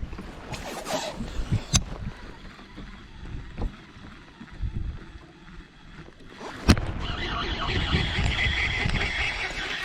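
Knocks and handling noises of gear in a fishing kayak, with a sharp knock about two seconds in and a louder one near seven seconds, followed by a steady hiss.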